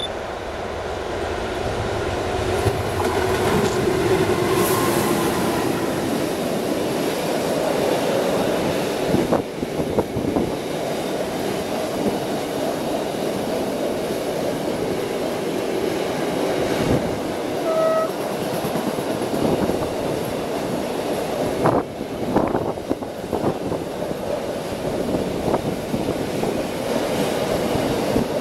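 Train running past on the rails: a steady rumble with scattered sharp knocks from the wheels, and a brief short tone about eighteen seconds in.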